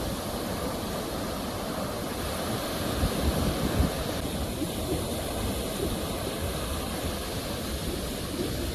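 Ocean waves washing onto the shore in a continuous rush of surf, with one wave breaking louder about three seconds in.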